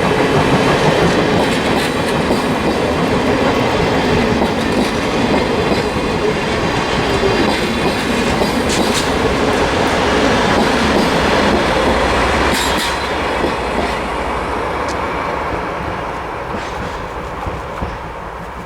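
Steam-hauled passenger train rolling past, its wheels clicking over the rail joints with a few sharp clicks and squeals, fading away over the last few seconds.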